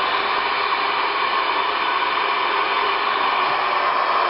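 Steady static hiss from a CB radio's speaker between transmissions, thin and capped in its highs, with no voice on it.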